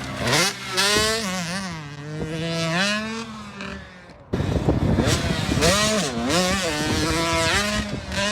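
Dirt bike engine revving hard, its pitch sweeping up and down again and again as the throttle is worked over the track. The sound breaks off sharply about four seconds in and picks up again with a bike revving the same way.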